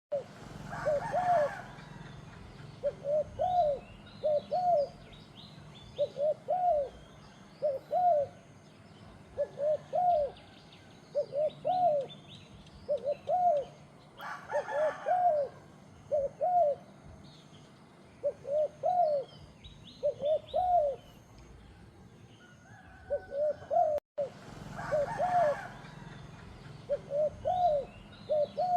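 Doves cooing: short arched notes, mostly in pairs, repeated in runs about once a second, with small birds chirping faintly at a higher pitch. Three short rustling bursts come about a second in, about halfway through, and a few seconds before the end.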